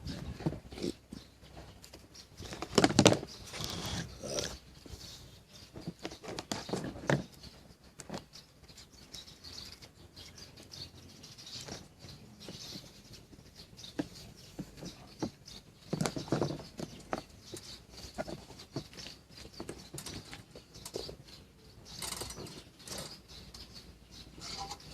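Irregular clicks, taps and rustling, as of hands working on small parts, with a louder knock about three seconds in.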